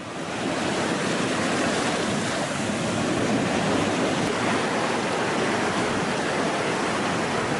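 Cyclone storm wind and heavy rain, a steady rushing noise that fades in over the first half second and holds level.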